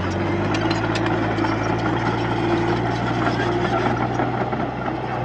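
Diesel engine of a Komatsu D31P bulldozer running steadily with an even low hum.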